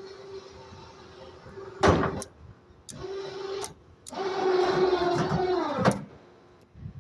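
An electric motor whirring in short runs, with a sharp knock about two seconds in; the longest, loudest run near the end drops in pitch and stops on a click.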